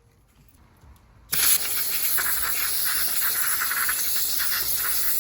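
Steady, loud hiss of a pressurized jet of gas, starting suddenly about a second in and running on unbroken.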